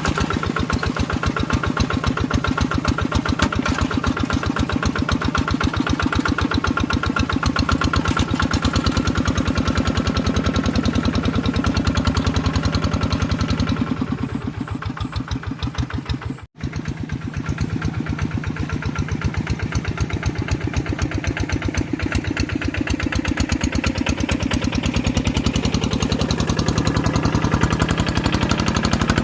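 Tractor engine running steadily while plowing, with a rapid, even firing beat. It goes a little softer a bit past the middle and drops out for an instant before running on.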